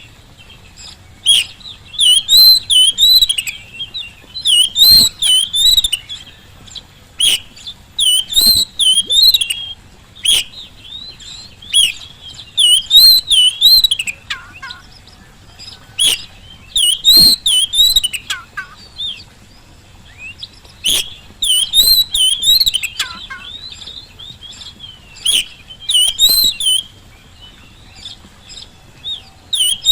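Oriental magpie-robin (kacer) in full song: loud, short warbling phrases of a second or two each, repeated over and over with brief pauses between them.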